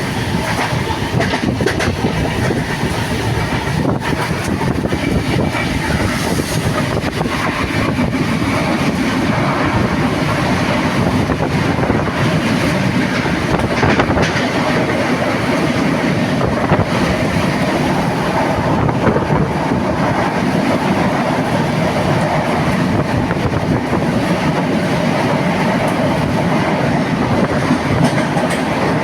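Moving passenger train running steadily: a constant rumble of wheels on the track, with a few sharp clicks scattered through it.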